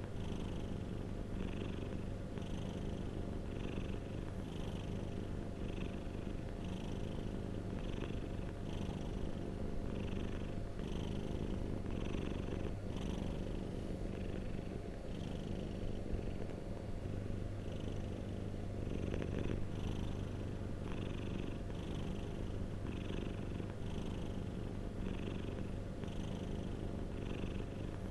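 Domestic cat purring steadily and continuously, a low rumble that swells and eases in a regular rhythm with its breathing.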